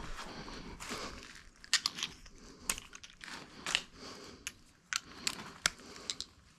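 Assembly hardware and tools being handled: a dozen or so sharp, irregular clicks and clinks, some close together, over a faint background.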